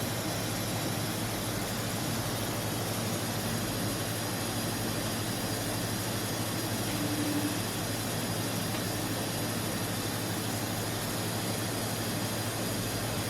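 Steady machine hum and hiss from a powered-up DECKEL MAHO DMU 70 CNC machining centre, with a low drone underneath and a short higher tone about seven seconds in.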